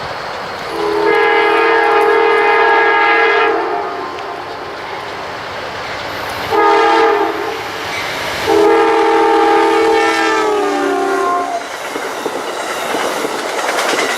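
Locomotive air horn sounding a chord in three blasts, long, short and long, the last one dropping in pitch as the locomotive passes. It is heard over steady rail noise, and the train's wheels then clack over the rail joints.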